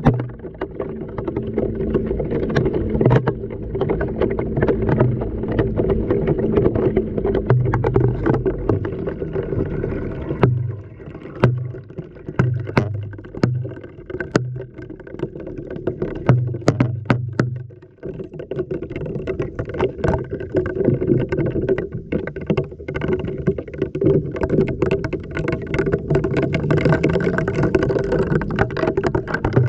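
Washing machine drum tumbling a load in water, heard from inside the drum: water sloshing and gurgling over a pulsing motor hum, with many sharp knocks as things strike the drum. The tumbling briefly lets up about eighteen seconds in, then resumes.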